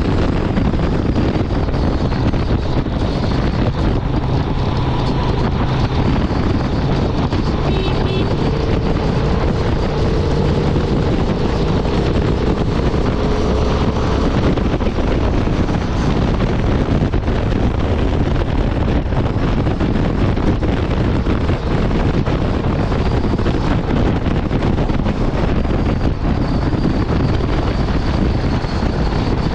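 Honda Transalp 750's parallel-twin engine running steadily at highway speed, under heavy wind rush on the microphone.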